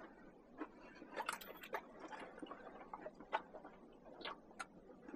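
Faint, irregular small clicks and taps, about a dozen scattered through, the loudest a little over a second in and past three seconds in.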